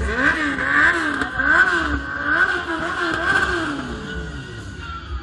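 Motorcycle engine revved up and down over and over in a steady rhythm, then the revs falling away near the end.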